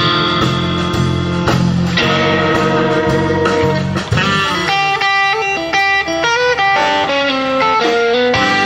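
Blues-rock band music led by electric guitar: held guitar chords over a low bass part, then from about four and a half seconds in a run of quick single notes.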